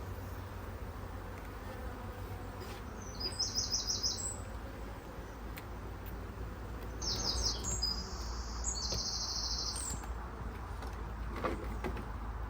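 A songbird singing short, rapid trilled phrases three times, over a steady low background hum.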